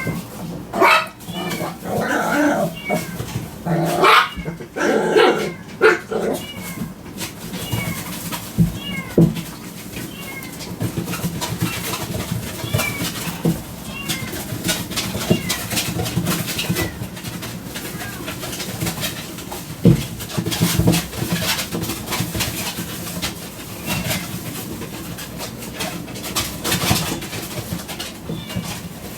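Yorkshire terrier puppy whimpering and yipping in short, high-pitched calls, loudest in the first several seconds, with scattered clicks and knocks throughout.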